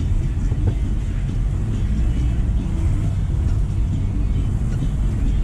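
Jeep driving, with a steady low rumble of engine and tyres.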